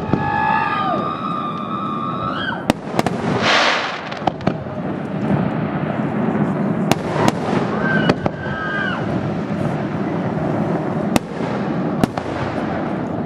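Aerial firework shells bursting overhead: a string of about eight sharp bangs at uneven intervals, with a brief hiss about three and a half seconds in.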